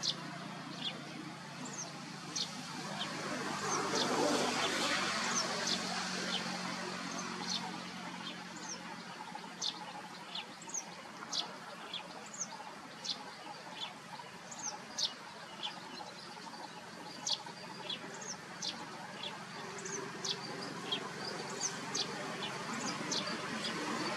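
Birds chirping: short, high, falling chirps, about one or two a second, over a steady hiss that swells briefly about four seconds in.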